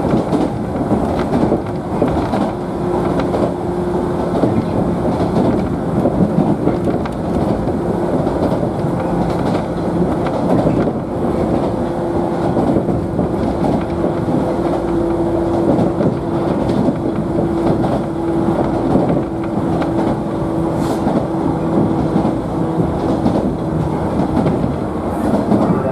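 Cabin noise of a 113-series electric train's motor car running between stations: a steady rumble of wheels on rail, with a steady hum from the traction motors and gearing through most of the stretch.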